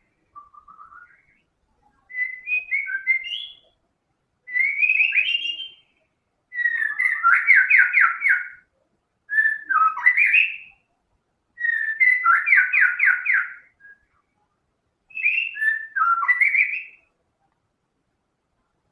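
White-rumped shama (murai batu) singing: about seven loud whistled phrases separated by short pauses, mixing rising and falling glides with quick runs of repeated notes.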